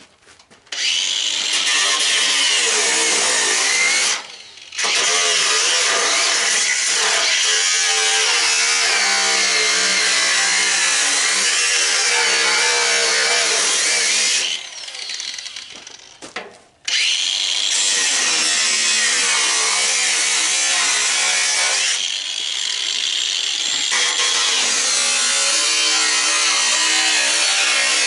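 Handheld electric cutting tool cutting under load, its motor pitch sagging and recovering as it bites. It stops briefly about four seconds in, pauses for about two seconds near the middle, then cuts on.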